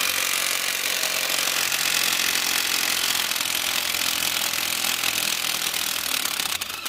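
Power tool running steadily on the U-bolts that hold a truck's rear axle, stopping near the end.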